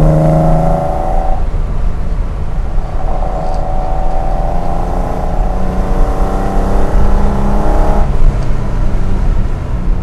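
BMW 635 CS Hartge's inline-six on three twin Weber 45 carburettors accelerating, heard from inside the cabin. The revs climb and are cut off by a gear change about a second in, then climb again through the next gear to another shift about eight seconds in.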